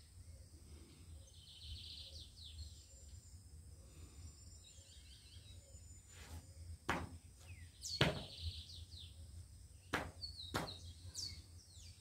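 Birds chirping in short, high, quick calls several times. A few sharp knocks come about six, seven, eight and ten seconds in, over a faint low rumble.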